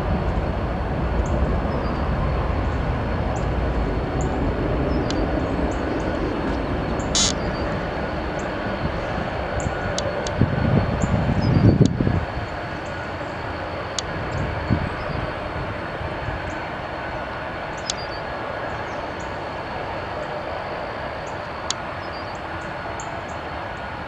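Jet airliner engines rumbling at an airport, a steady noise that slowly fades, with a brief loud low rush about halfway through that cuts off suddenly.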